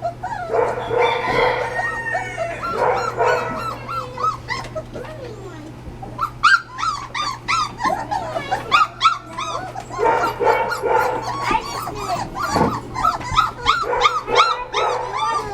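A litter of English setter puppies whining and yelping, many short rising-and-falling cries overlapping one another, thicker in the second half.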